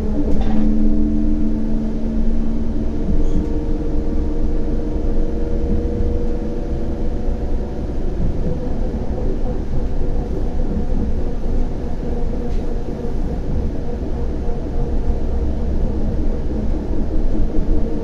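CAF Urbos 100 tram running between stops: a steady low rumble of wheels on rail under the traction motors' whining tones, with one short click about half a second in.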